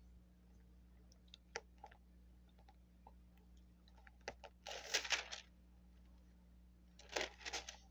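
Paper pages being handled and turned. A few light clicks come first, then two bursts of page rustling, one about five seconds in and one near the end.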